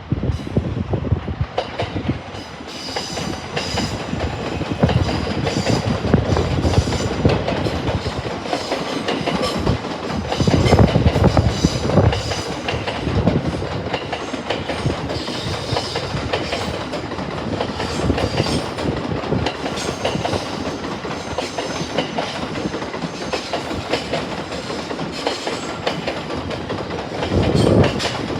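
Electric train running past close by, its wheels clattering over the rail joints in a long run of repeated knocks over a steady rumble.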